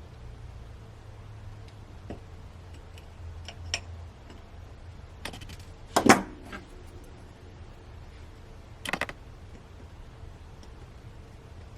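Small hand tools clicking and clattering on a workbench while LED leads are bent for soldering. There are scattered light ticks, a loud metallic clatter with a short ring about six seconds in and a smaller one near nine seconds, over a steady low hum.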